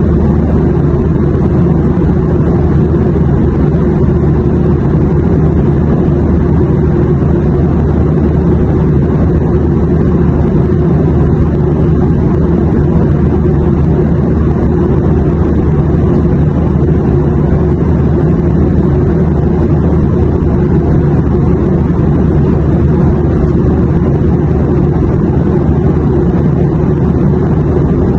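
Steady airplane engine drone, a low, even hum that holds the same pitch and level throughout.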